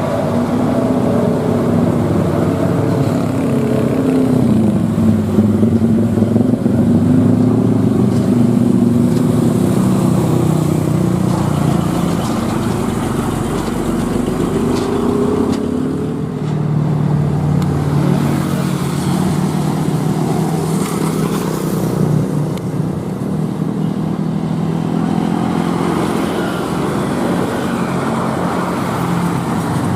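Heavy truck's diesel engine labouring up a steep grade. Its note dips and climbs back a few seconds in and settles lower about halfway through, as with gear changes under load.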